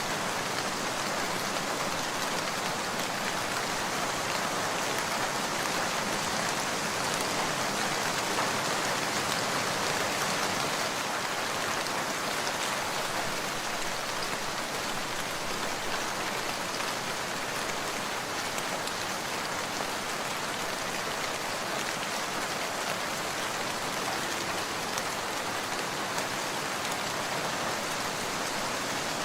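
Steady rain falling, an even hiss that holds constant without breaks.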